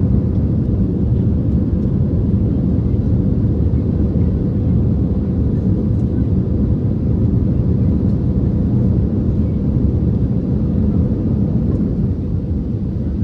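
Steady low rumble of an Airbus A319's jet engines and airflow heard from inside the passenger cabin during the climb after takeoff.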